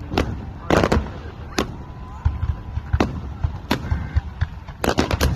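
Fireworks going off: sharp bangs at irregular intervals, a quick cluster about a second in and another near the end, over a steady low rumble.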